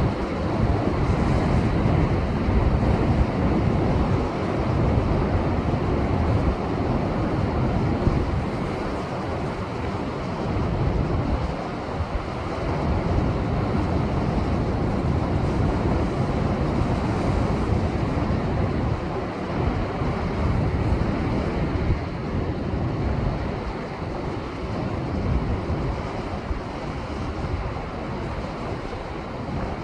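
Heavy storm surf breaking on a rocky shore in the swell left by a typhoon: a continuous deep rumbling wash of waves that swells and eases, a little quieter over the last several seconds.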